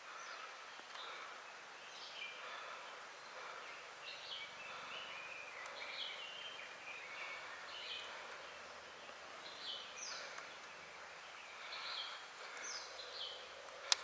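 Birds chirping and calling over and over in dense forest: many short notes, some sweeping quickly downward, over a steady background hiss. A single sharp click comes near the end.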